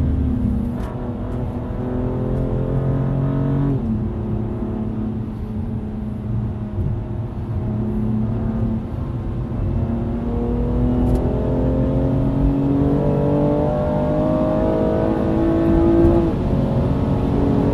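Car engine heard from inside the cabin, pulling hard on track. Its pitch climbs, drops sharply at an upshift about four seconds in, holds fairly level, then climbs again and drops at another upshift near the end.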